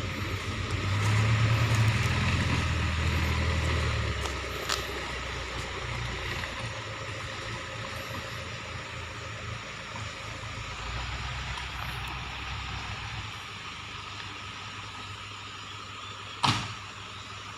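A vehicle engine running on a slippery road, rising for a few seconds near the start and then settling to a steadier, lower run. A single sharp knock sounds near the end.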